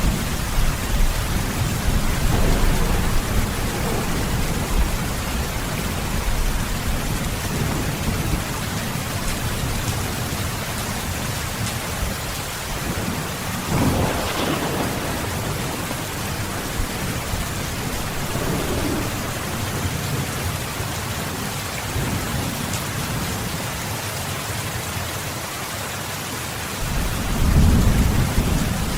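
Steady heavy rain with rolling thunder: deep rumbles at the start, a brief sharper burst about halfway, and another rumble swelling near the end.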